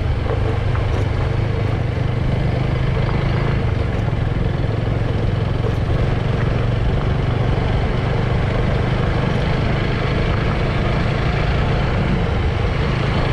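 Motorbike engine running steadily while riding, a constant low hum under even road noise.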